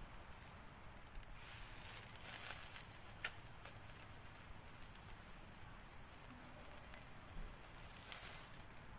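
Faint, steady patter of rain with a few sharp crackles from a small wood fire in a secondary-combustion mini stove.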